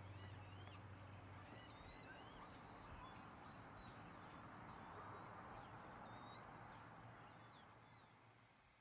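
Faint birds chirping in short, quick calls over a low background hiss, fading out near the end. A low hum cuts off about a second and a half in.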